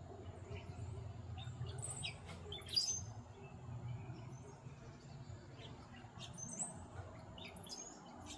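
Small songbirds chirping in short, scattered calls over a low background rumble that fades about halfway through.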